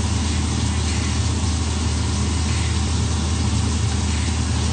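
Vegetables sizzling in a hot pan as they are stirred: an even hiss over a steady low hum.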